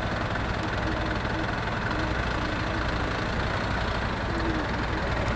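Suzuki V-Strom 250's parallel-twin engine running steadily.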